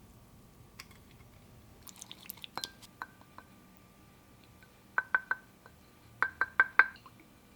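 Tableware clinking, each clink with a brief ring: a few single clinks, then a quick run of three and another run of four near the end.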